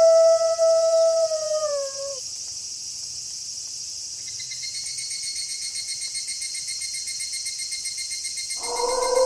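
A wolf howling: one long note held on a steady pitch, sliding down and ending about two seconds in. A steady chorus of night insects follows, joined by a fast pulsing trill about four seconds in, and a second howl begins near the end.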